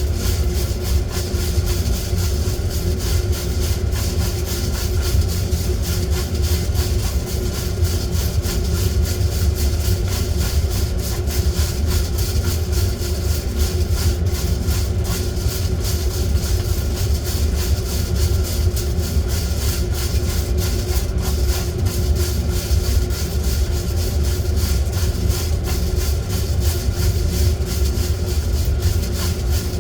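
Small electric fan motor running steadily: a constant low hum with a fine, rapid crackle over it.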